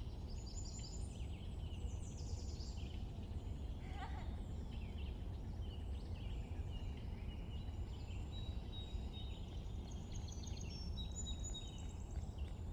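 Several small birds chirping and trilling at once, many short overlapping calls, over a steady low rumble.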